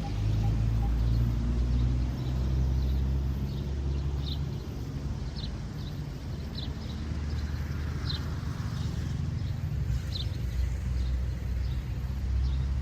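A low, steady engine-like rumble with short high chirps repeating about once a second.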